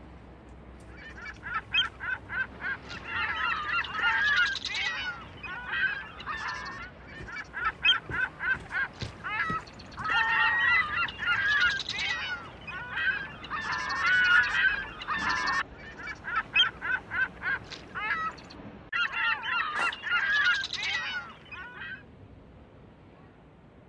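A flock of birds calling, many short repeated calls overlapping in bouts that start about a second in and die away about two seconds before the end.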